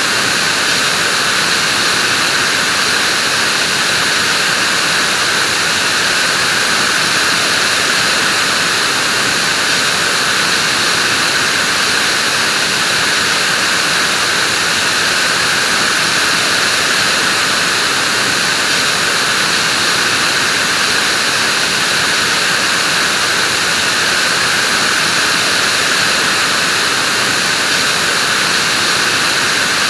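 Vacuum cleaner running steadily with an unchanging motor whine and rushing air, strongest in the upper-middle pitches.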